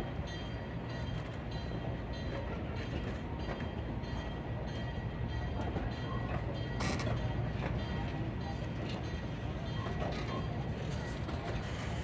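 Narrow-gauge train running through a rail yard: a steady low rumble with scattered metallic clanks, the sharpest about seven seconds in.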